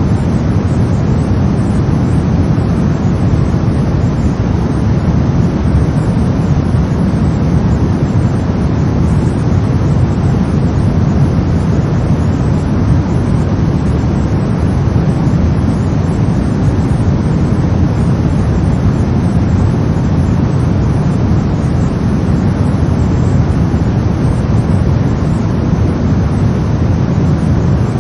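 Brown noise: a steady, deep rumbling hiss, strongest in the low end and unchanging throughout.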